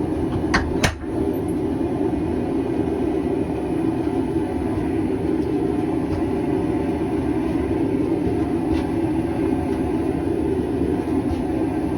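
Steady roar of a running blacksmith's forge, with two sharp metal clinks about half a second and one second in and a few faint ticks later, as a bar of hot square stainless stock is twisted in a vise.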